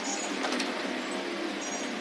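Electric table fan running with a steady mechanical whirr, the kind of noise made by a fan that also stalls while running.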